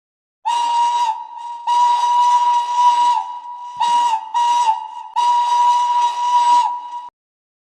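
Steam locomotive whistle sounding five blasts, short, long, short, short, long, on one steady shrill note with a hiss of steam, the pitch sagging slightly as each blast is cut off.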